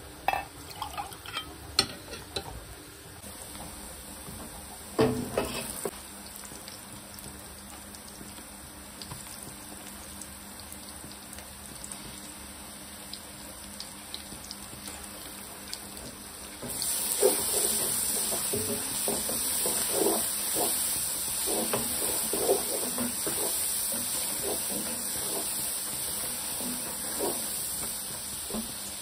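A few knocks and liquid sounds as a mug scoops broth from a pot. About halfway through comes a steady sizzle of sliced onions and garlic paste frying in oil in a non-stick pan, with a wooden spatula scraping as they are stirred.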